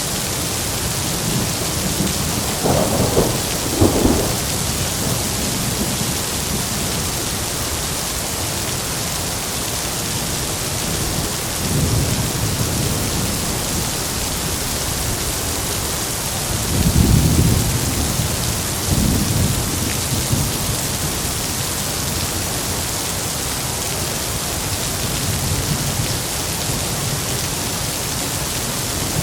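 Heavy, steady rain with thunder rumbling several times over it: two sharper peals early on, a softer rumble a little before halfway, the loudest rumble a little past halfway, and a faint one near the end.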